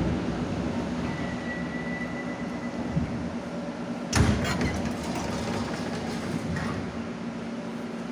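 Moscow metro 81-717 'Nomernoy' train standing at a station with its equipment humming steadily, and one sharp clunk a little past four seconds in.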